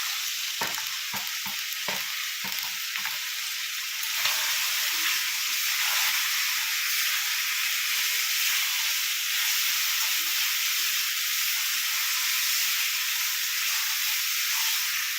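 Chicken sizzling as it fries in mustard oil in a pan, a steady hiss, with a utensil knocking and scraping against the pan several times in the first three seconds and once more about four seconds in. The oil has separated from the chicken: the dish has reached the end of its kosha (dry-fry) stage.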